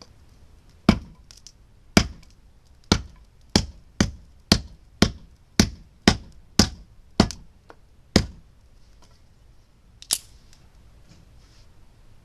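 A run of about twelve sharp knocks, quickening from about one a second to two a second and then slowing, followed after a pause by one more, brighter knock.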